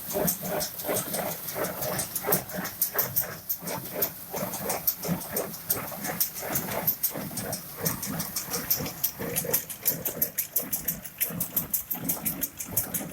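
Tractor-drawn baler at work: the machine runs with a fast, regular clicking, about four clicks a second, over a low rumble.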